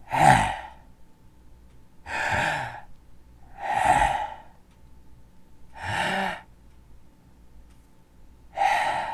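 A person taking three big, deep breaths close to the microphone: slow in-breaths and sighing out-breaths, one every two seconds or so.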